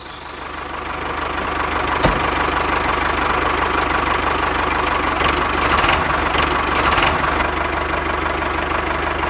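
A small motor running steadily, fading in over the first second. There is a sharp click about two seconds in and a few fainter ticks later.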